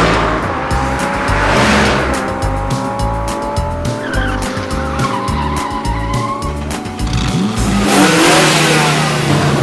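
Cartoon vehicle sound effects, an engine running with a slowly rising pitch and tyre-skid whooshes near the start and about eight seconds in, over a background music track with a bass line.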